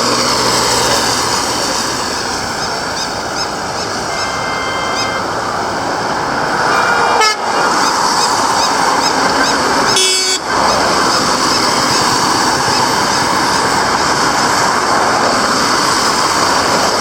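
Street traffic noise with passing vehicles, and a vehicle horn sounding once for about a second, about four seconds in.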